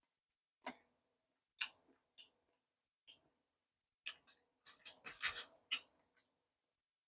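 Eating sounds over a Korean lunch box: scattered sharp clicks and taps, then a busier run of clicks about four to six seconds in.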